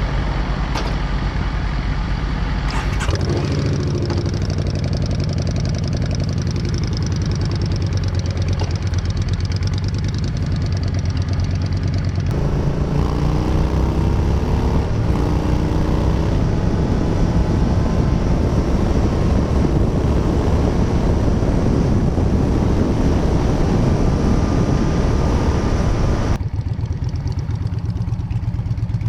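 Yamaha Bolt's air-cooled V-twin running through a Bassani Radial Sweepers exhaust while the bike is ridden, with steady wind rush over the microphone. The engine note rises and falls with the throttle through the bends, and the sound changes abruptly twice.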